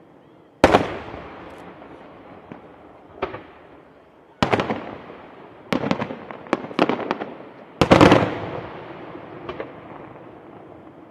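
Fireworks exploding: about nine sharp bangs, each trailing off in an echoing rumble. One comes a little under a second in, a quick run of bangs follows in the middle, and the loudest comes near the end.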